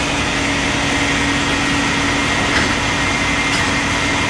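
A vehicle engine idling steadily, with a constant low hum and a couple of faint clicks.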